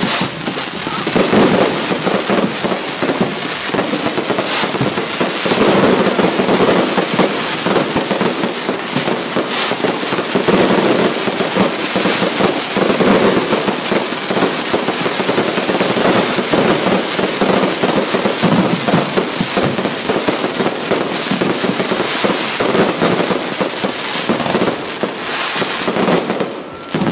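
Fireworks going off in a dense, continuous barrage, with rapid overlapping pops and crackling and no pause.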